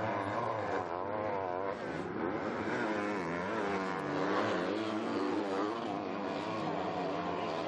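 Several 250cc four-stroke motocross bike engines racing together, overlapping, their pitch rising and falling repeatedly as the riders work the throttle.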